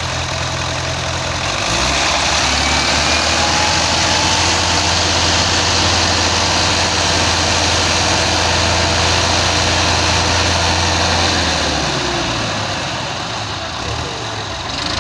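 Tractor diesel engine running steadily. Its note rises and grows louder about two seconds in, then drops back near the end.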